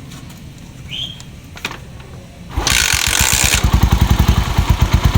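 Honda TMX 125 Alpha's single-cylinder four-stroke engine kick-started, catching on the first kick about halfway through and then running with quick, even firing pulses. The valve clearances have just been adjusted, and the tapping from the cylinder head is gone.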